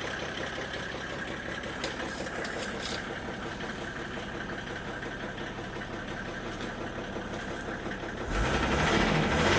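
Mercedes OM606 inline-six diesel running with a knock from the rollers of the injection pump's timing advance coupling, a sign that the coupling is worn. The engine gets louder from about eight seconds in.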